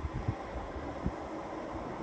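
Wind buffeting the microphone in irregular low thumps over a steady background hiss.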